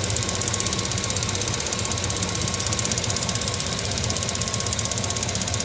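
2008 GMC 2500HD's 6.0 L Vortec V8 idling with a rapid, even ticking. The owner wonders whether it is normal fuel injector noise, and finds it too fast for lifters.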